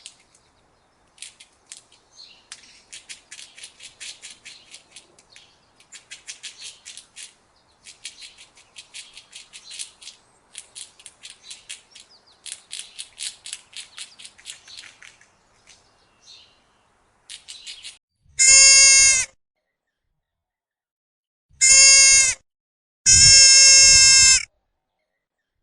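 A faint run of rapid, high chittering clicks in short bursts, then three loud, steady-pitched bleats from a goat near the end, the last one the longest.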